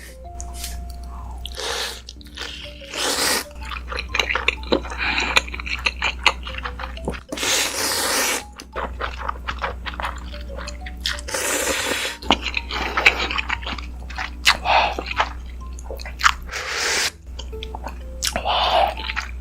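Close-miked eating of ramen: about eight slurps of noodles, each half a second to a second long, spread through the stretch, with wet chewing clicks in between.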